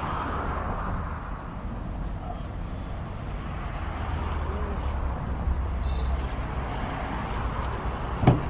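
Steady outdoor background with a low rumble of road traffic; a bird gives a quick series of about six short rising chirps about six seconds in.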